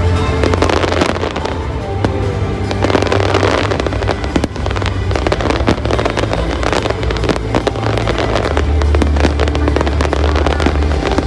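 Fireworks display going off continuously: dense, rapid bangs of exploding shells, one after another, with music playing underneath.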